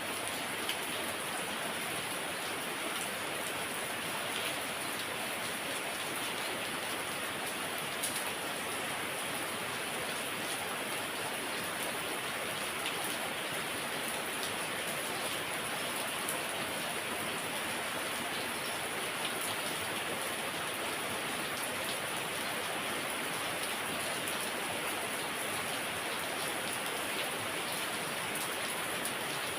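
Heavy rain falling steadily, a dense even hiss with the occasional louder drop tapping.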